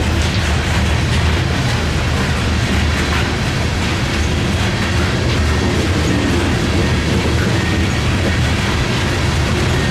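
Freight train rolling past, a steady rumble with the clatter of wheels over the rails.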